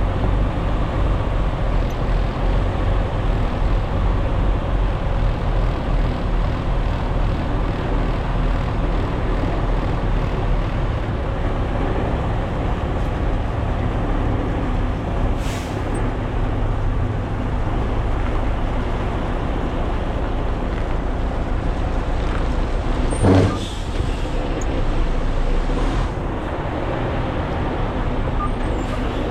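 Semi-truck's diesel engine running with a steady low rumble. About 23 seconds in comes a short, loud burst of air from the air brakes.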